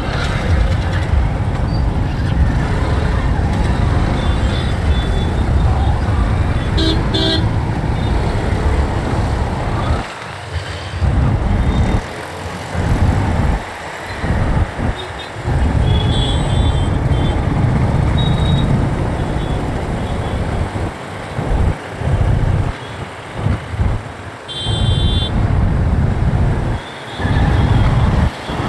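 Wind rumble on the microphone of a motorcycle moving through city traffic, cutting in and out in short gaps in the second half as the bike slows. Vehicle horns honk briefly three times.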